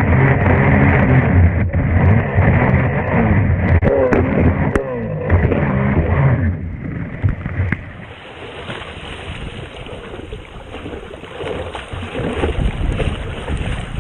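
Jet ski engine running hard at speed, its pitch wavering, with a few sharp knocks about four to five seconds in. About six and a half seconds in the engine sound drops away, leaving wind and water noise.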